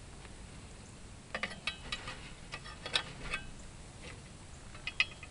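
Scattered light metallic clicks and clinks, in small clusters, from hand tools and parts while working a replacement ignition coil into its mount on a tractor engine.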